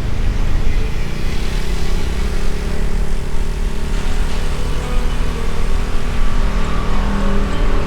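Motorbike engine running while riding along the road, mixed with road and wind noise.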